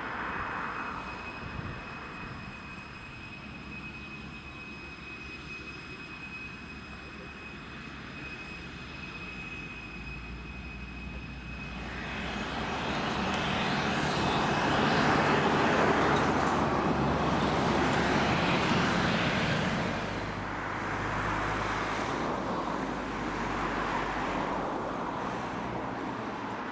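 Boeing 747-400 jet engines running: a steady roar with thin high whistling tones in the first half, then about twelve seconds in the roar swells to its loudest for several seconds before easing off somewhat.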